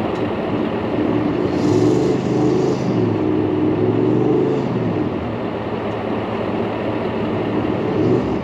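Four-wheel-drive engine revving hard under load during a bogged-vehicle snatch-strap recovery. The pitch climbs and holds for a few seconds, then drops back to a steady run about five seconds in.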